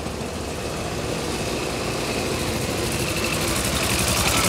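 Engine of a veteran car from the early 1900s chugging with a rapid, even beat of firing strokes, growing louder as the car drives close past.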